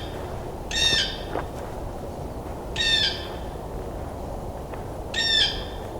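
Blue jay calling close by, three short calls about two seconds apart.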